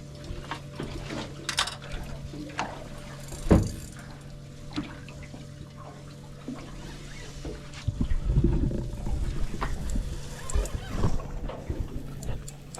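Water sloshing and splashing around a small boat, with scattered knocks on the hull and one loud thump about three and a half seconds in, over a steady low hum; from about eight seconds in it turns louder and rumbling.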